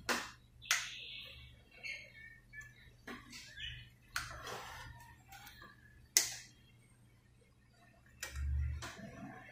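Sharp metal clicks and scraping of tools on a sewing machine's parts as a nut is undone to remove a plate inside the machine, with a short low thump near the end.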